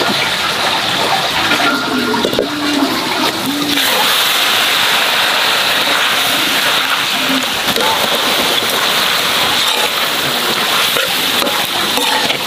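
Pork offal sizzling as it is stir-fried in a wok with a metal spatula; the steady sizzle thickens about four seconds in.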